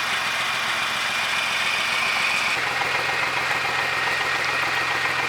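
Car engine idling steadily, with a thin high whine that drops slightly in pitch about halfway through.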